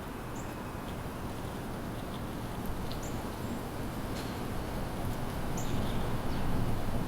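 Small songbirds giving short, high single chirps a few seconds apart, over a steady low hum of city background noise that swells slightly near the end.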